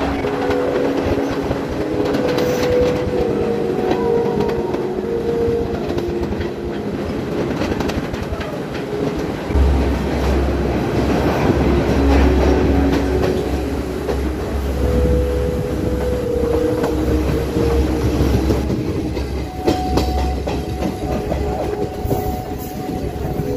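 Passenger train running, heard from a carriage doorway: continuous rumble and rail clatter. A deep low rumble swells in about ten seconds in and holds for around ten seconds.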